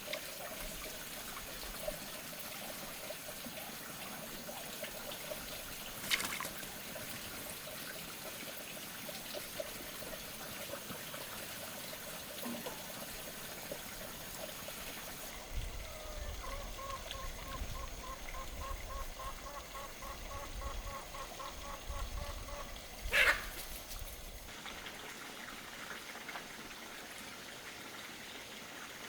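Water trickling, with a rapid pulsing tone running under it and two sharp knocks, the louder one near the end.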